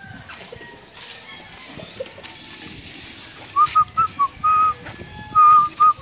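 A bird calling a run of short, clear whistled notes at one pitch, some with a slight upward curl and a couple held a little longer, starting about halfway through.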